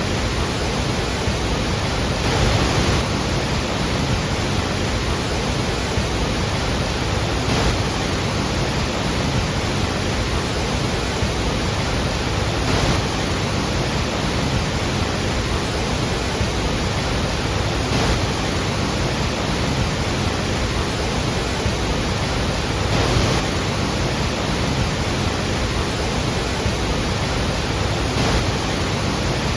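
Iguazu Falls' water plunging and crashing, a steady dense rush with slight swells about every five seconds.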